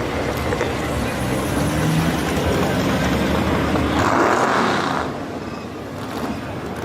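Motor vehicles running and passing with general street noise, and a louder hissing surge about four seconds in.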